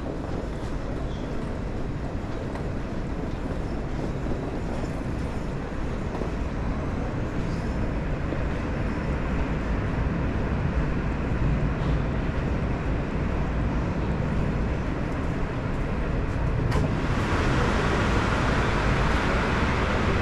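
A vehicle running: a steady rumble and noise. About 17 seconds in, a louder hiss comes in suddenly.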